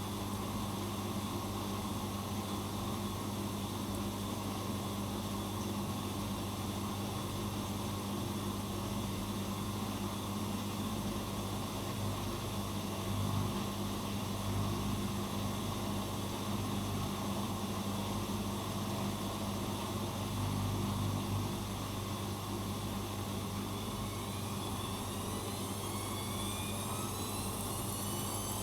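Bosch Maxx Advantage WFCX2440 slimline washing machine running with a steady motor hum. Near the end a rising whine sets in as the drum speeds up.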